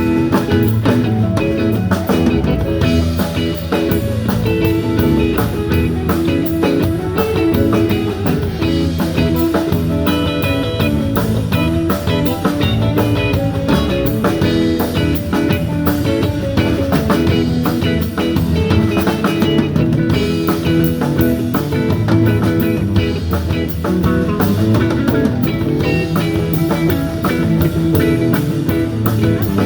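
Rock band playing a bluesy instrumental passage: electric guitar over bass and a drum kit keeping a steady beat.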